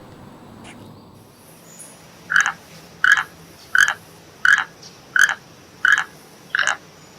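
An animal calling: short, identical calls repeated at an even pace, about one every 0.7 seconds, starting about two seconds in.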